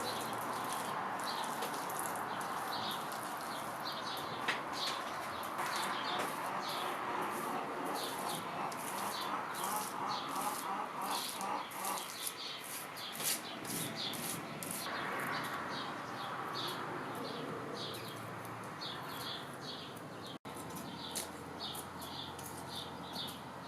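Small birds chirping in quick, repeated short calls over a steady rushing background noise. The sound drops out for an instant about twenty seconds in.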